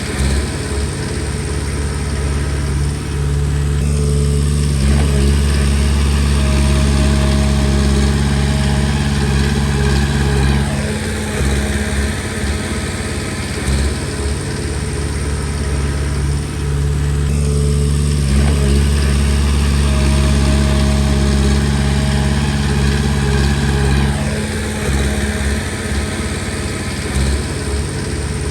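Komatsu D20P bulldozer's diesel engine running steadily, getting louder twice for about seven seconds each time as it works.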